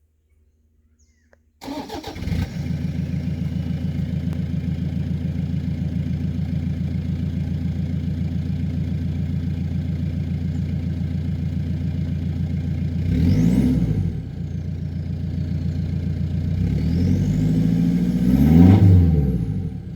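Toyota Hilux SR5 turbo-diesel with the muffler deleted starting up, then idling steadily. It is revved twice, briefly around the 13-second mark and longer near the end, each time with a high turbo whistle that rises with the revs and falls away after.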